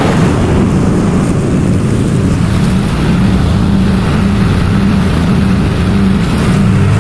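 Gas lawn mower engine running steadily under load while cutting tall grass.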